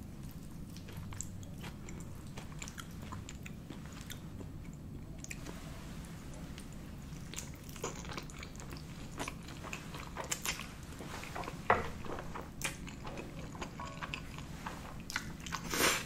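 A person chewing mouthfuls of spaghetti carbonara close to the microphone. From about eight seconds in there is a run of short wet mouth clicks and smacks, the loudest about twelve seconds in and just before the end.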